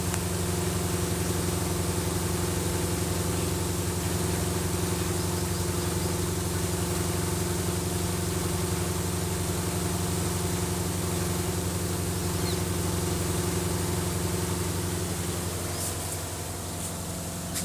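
Steady low mechanical hum of a running motor or engine, which eases off a little near the end.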